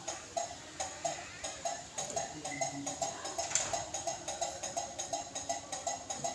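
A sooty-headed bulbul (kutilang) gives a fast, even run of short repeated notes, about four or five a second.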